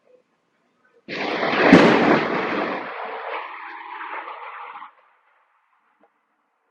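A close clap of thunder: a sudden blast about a second in with its sharpest crack half a second later, then a rumble fading over about three seconds before stopping suddenly.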